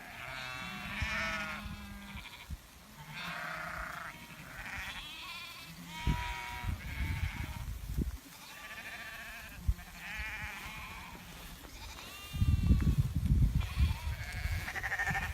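A flock of sheep bleating, one wavering call after another throughout. A loud low rumbling noise comes in near the end.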